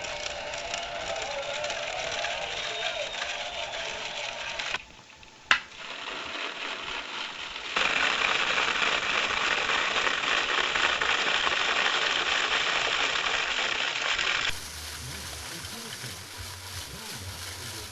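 Scale model car wash machinery running: a steady hiss with a light mechanical rattle, briefly dropping away with a sharp click, then a louder stretch of hiss for several seconds before a sudden change to a quieter sound.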